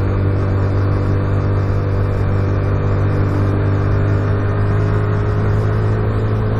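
Motorcycle engine running steadily at cruising speed, a low even hum, over a steady rush of wind noise on the microphone.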